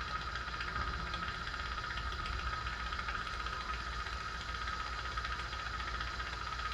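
Jeweler's soldering torch with a 4 tip burning steadily, a constant hiss over a low rumble, as it heats solder on a hollow chain link.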